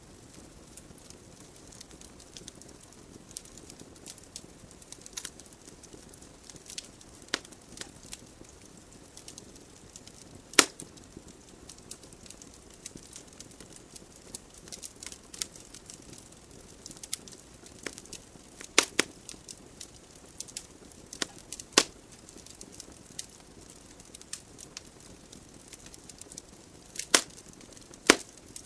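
Wood fire burning in a fireplace: a soft steady hiss with scattered crackles and sharp pops from the burning logs, a few loud snaps standing out.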